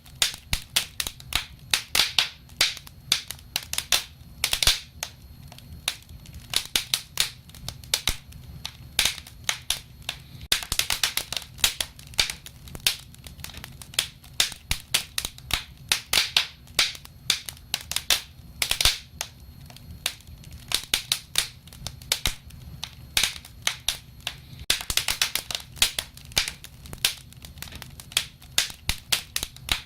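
Wood fire crackling: an irregular stream of sharp pops and snaps, several a second, over a steady low rumble.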